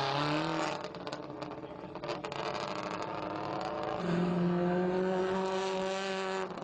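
Rally car engine revving hard, its pitch rising, then dropping off about a second in to a quieter stretch with scattered clicks and crackles. A loud, steady high engine note returns about four seconds in.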